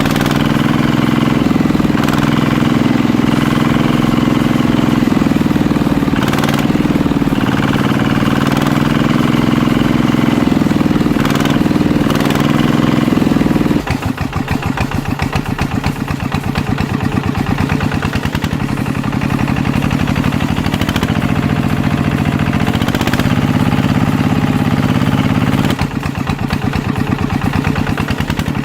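Small diesel engine of the kind used on a walking (hand) tractor, running steadily at first. About halfway through it changes to a rapid, even chugging.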